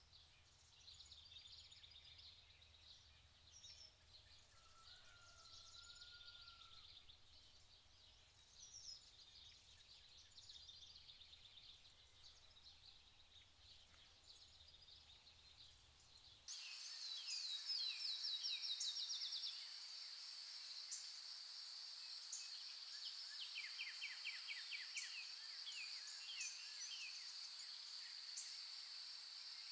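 Quiet nature ambience: faint scattered birdsong over a low hum. About halfway through it cuts to a steady high-pitched chorus, with a rapid bird trill lasting a couple of seconds and then more scattered bird calls.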